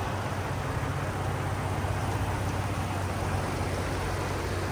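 2019 Ford Raptor's twin-turbo 3.5-litre EcoBoost V6 idling steadily, very quiet and smooth with no vibration.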